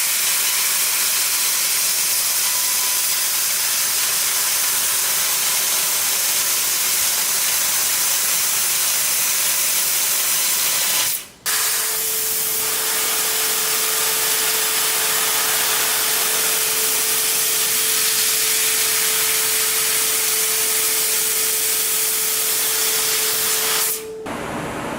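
A 15000 W laser cutting machine cutting sheet metal, its high-pressure assist gas hissing steadily from the cutting head. The hiss breaks off for a moment about eleven seconds in, then resumes with a steady hum beneath it. It stops shortly before the end, leaving a low machine rumble.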